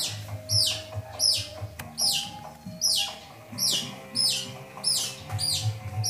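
A bird chirping over and over, each call a short, sharply falling high note, repeated steadily about once a second.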